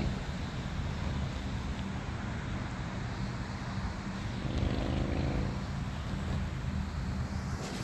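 A steady low engine drone, typical of motor traffic or a boat motor, with a second engine tone rising and fading about halfway through.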